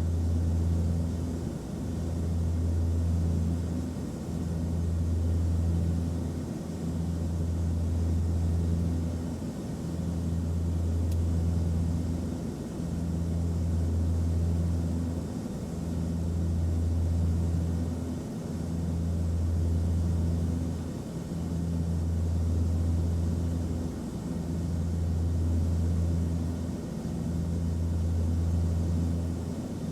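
Airliner cabin noise in flight: a steady low rumble and hiss, with a deep hum that swells and dips about every two and a half seconds.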